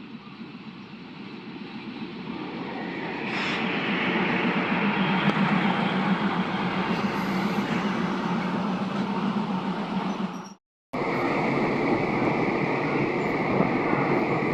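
Diesel railcar train running on the rails, the noise building over the first four seconds and then holding steady. It drops out completely for a moment about ten and a half seconds in.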